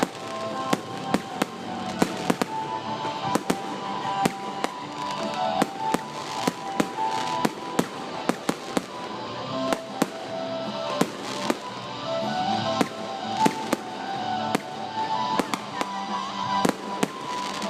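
Fireworks display: aerial shells going off in quick succession, several sharp bangs a second with crackling between them.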